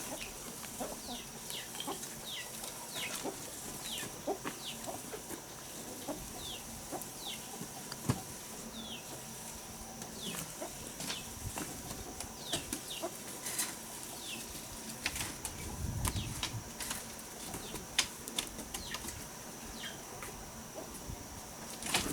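Chickens peeping and clucking: many short, high, falling peeps scattered throughout, with scattered clicks and knocks and a brief low rumble about two thirds of the way in.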